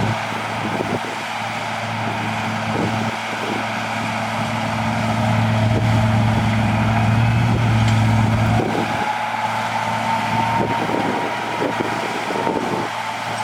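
Heavy earthmoving machine's diesel engine running steadily, with a high whine rising slowly through the second half and irregular clanks. The deep engine note drops away about two-thirds of the way through.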